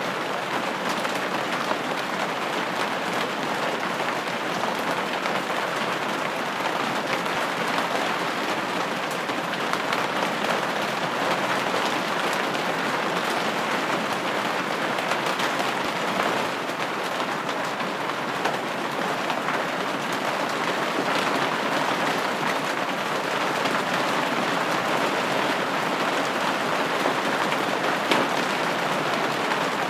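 Steady rain falling on a window: a dense, even hiss of many small drops with fine taps, and no sudden changes.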